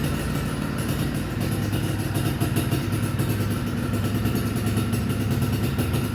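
Suzuki Tornado GS motorcycle engine idling steadily, with an even, unchanging pulse.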